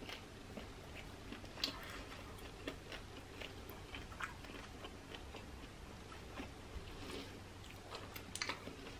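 Close-up chewing of shell-on shrimp in sauce: wet mouth clicks and smacks with occasional crunches of shell. A quick cluster of louder wet smacks near the end as sauce is sucked off the fingers.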